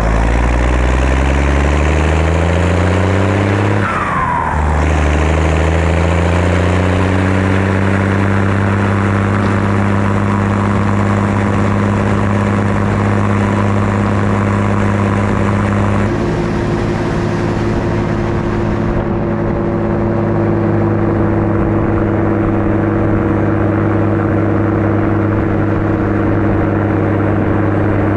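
Straight-piped, turbocharged six-cylinder diesel of a 1988 Zetor 16145 tractor running under load. Twice in the first few seconds the engine's pitch dips with a short falling turbo whistle, then climbs again. After that it holds a steady pitch.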